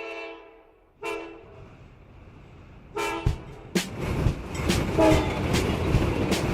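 Train horn blasts: one fading in the first second, a short toot about a second in and another about three seconds in. Then a train rolls through with a rumble and sharp wheel clicks over the rail joints, growing louder.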